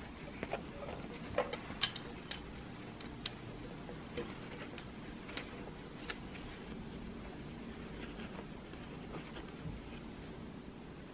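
Glass drinking straws clicking against each other and the table, about seven sharp clicks over the first six seconds, the loudest about two seconds in. After that, soft rustling of a cloth pouch as its tie string is wrapped and knotted.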